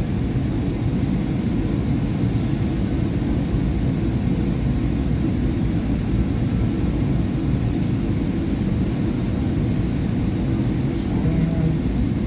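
SEPTA Market-Frankford Line train running between stations, heard from inside the car: a steady low noise of wheels and traction motors.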